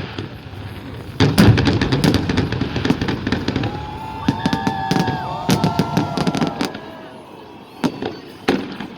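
Festive fireworks salute: a dense run of bangs and crackling reports starting about a second in. Several high whistling tones sound through the middle, and the bursts thin out near the end.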